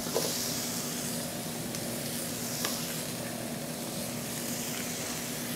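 Steady sizzling in a pot over a gas flame as a sauce base of caramelizing sugar and sliced mushrooms fries, with apple trimmings being dropped in; a faint tick about two and a half seconds in.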